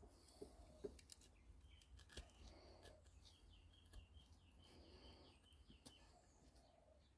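Near silence, with faint bird chirps in the background: a quick run of short high notes repeated several times a second through the middle. Scattered light clicks sound over a low steady hum.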